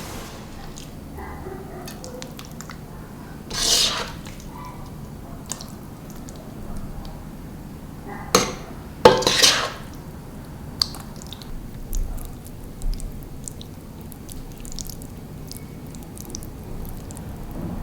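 Kitchen handling sounds from cooking: scattered light clicks and clinks of dishes and utensils, with two louder brief noisy bursts, about four seconds in and about nine seconds in.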